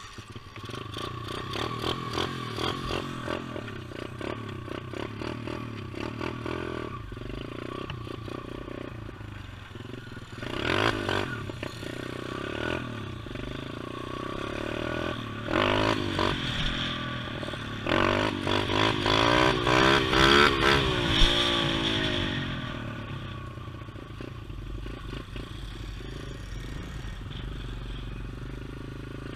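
Pit bike engine running, its revs rising and falling several times in the middle stretch before settling back to a steadier run near the end.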